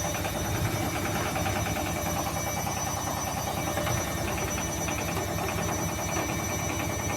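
Beko washing machine spinning with an unbalanced load: the drum thumps and the cabinet shakes and rattles in a fast, steady rhythm. It is very loud.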